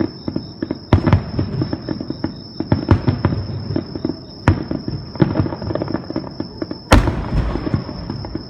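Fireworks bursting: a dense run of crackling pops and bangs, with one big boom about seven seconds in followed by a low rumbling echo. A thin steady high tone runs underneath.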